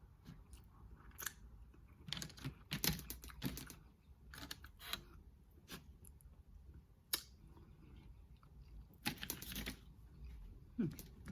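Crab shell being cracked and picked apart by hand: scattered sharp clicks and small crackles, in two denser clusters, a couple of seconds in and again near the end.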